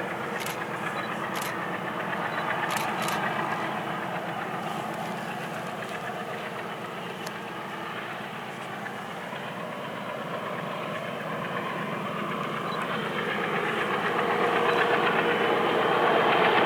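Diesel locomotive engine running steadily as the train draws nearer, growing louder near the end, with a few short sharp clicks in the first few seconds.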